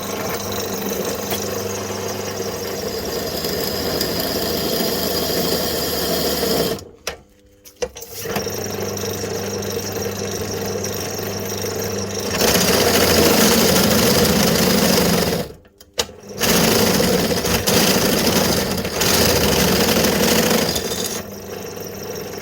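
Electric drill running with a freshly sharpened large twist bit cutting a hole, stopping briefly twice, about seven and sixteen seconds in, and louder and harsher from about twelve seconds in as the bit bites. The bit chatters and leaves a triangular hole, which the driller puts down probably to its two cutting faces not being perfectly matched.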